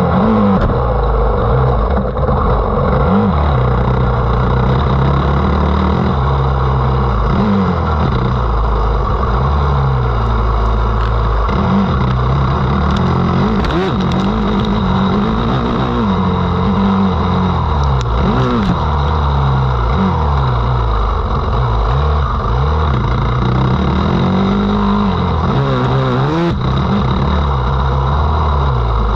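Motocross dirt bike engine at race pace, loud, its pitch climbing and dropping over and over with throttle and gear changes.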